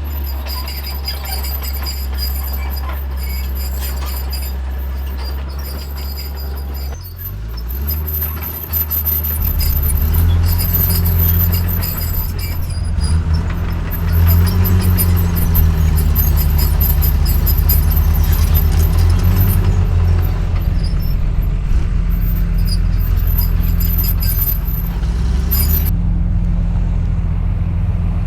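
Heavy diesel engine of earthmoving equipment running steadily, then about seven seconds in it revs up and works louder under load, its pitch rising and falling.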